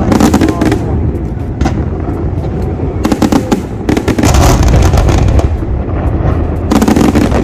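Fireworks display in full barrage: many rapid, overlapping bursts of booms and crackles over a continuous low rumble, densest in the second half.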